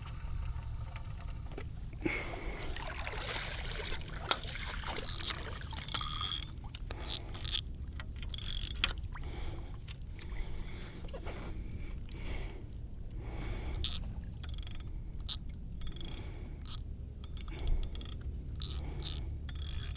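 Small knocks, clicks and scrapes of fishing gear being handled on a paddle board, with light water splashing and a steady low rumble; the sharpest click comes about four seconds in.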